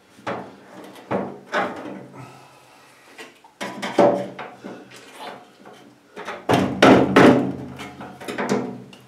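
Irregular knocks, scrapes and metallic rattles of a stainless steel range hood being taken apart by hand, busiest and loudest about two thirds of the way in, over a faint steady hum.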